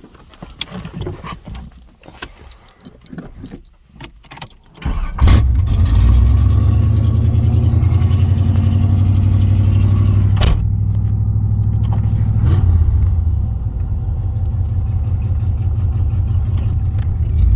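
Scattered clicks and knocks, then about five seconds in the John Deere 70 skid steer's engine starts and runs steadily with a deep, low-pitched drone.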